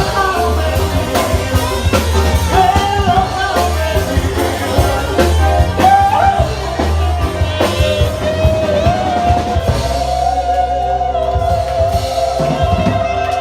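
Live rock band playing: a singer over drum kit, bass and guitar. About ten seconds in, the drums drop out, leaving a long held note over the bass.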